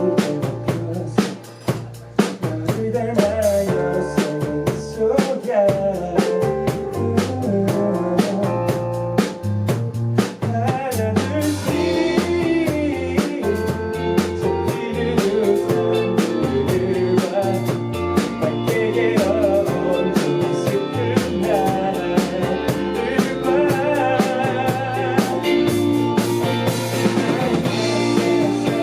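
Band playing a rock song live: a drum kit keeps a steady beat under electric guitar and a low bass line, and the playing grows fuller about eleven seconds in.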